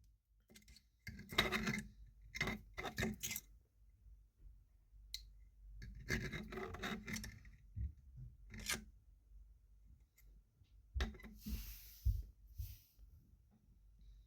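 Intermittent scraping and rubbing of hard plastic parts with a few sharp clicks, typical of freshly 3D-printed PETG wheel caps being handled and cleaned up. There is a longer rasping scrape near the end.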